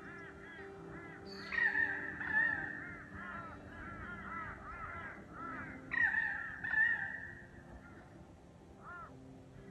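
A flock of birds calling: many short chirping notes repeated in quick runs, with two louder, longer calls about one and a half and six seconds in.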